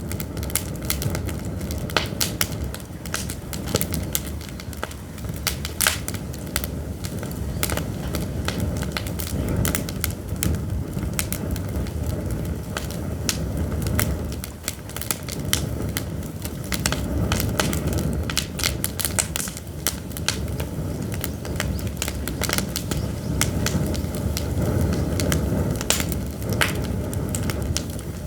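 Pine firewood burning, crackling and popping with many sharp, irregular snaps over a steady low rumble.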